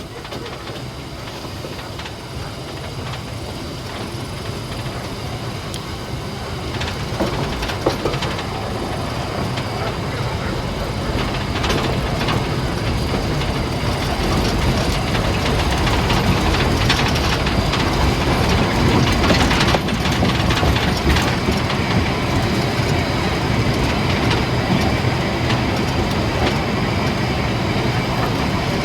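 Harz narrow-gauge steam train in motion, its wheels and running gear rattling on the track with a few sharp clicks, the noise growing steadily louder.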